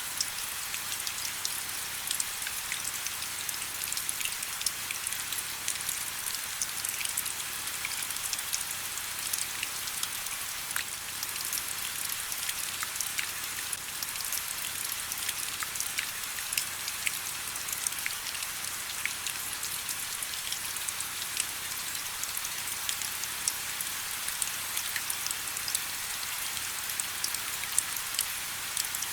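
Steady rain: a bright, even hiss dotted with many small drop ticks, with little low rumble beneath.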